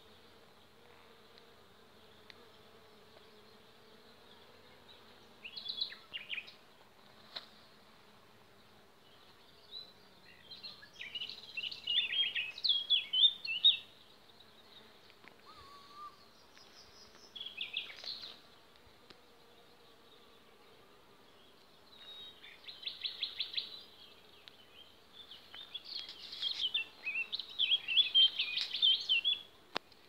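Songbird singing in repeated short bursts of quick, high chirping and warbling phrases with pauses between, the loudest near the end. A faint low steady hum runs underneath.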